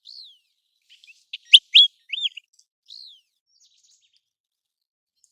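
American golden plover calling: clear whistled notes that fall in pitch, with a louder cluster of quick, sharper notes about a second and a half in.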